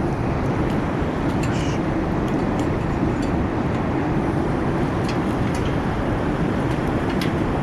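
Wood fire burning steadily in a campfire stand, a constant rushing noise with scattered small crackles and pops.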